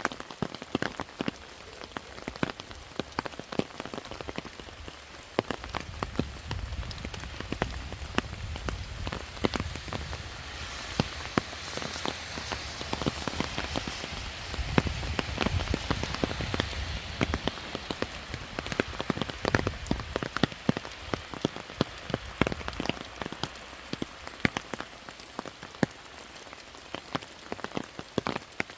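Rain falling, with many single drops striking hard surfaces over a steady hiss. A low rumble comes in during the middle, where the hiss also grows louder for a few seconds.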